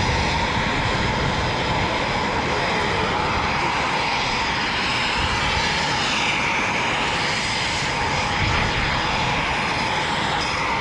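Jet aircraft engines running on the ground nearby: a loud, steady rush of noise with a constant whine, shifting in tone through the middle.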